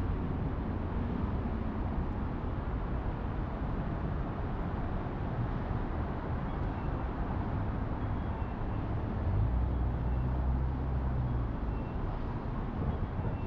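City street traffic on wet roads: a steady hiss with a low rumble of engines. A vehicle's low engine hum grows louder about nine seconds in and fades a few seconds later as it passes.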